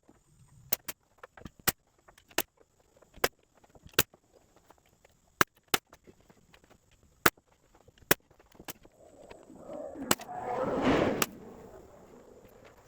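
Sharp, irregular knocks and clicks, roughly one every half-second to second, from work fitting plywood sheets onto a floor platform. About two-thirds of the way through, a louder scraping, rustling noise lasts about two seconds.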